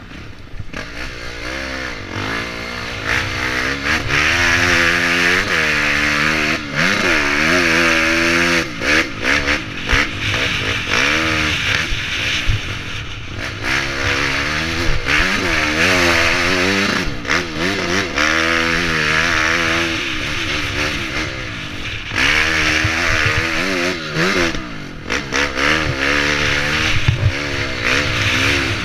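Honda CRF250X enduro motorcycle's single-cylinder four-stroke engine being ridden hard, its pitch rising and falling again and again with the throttle.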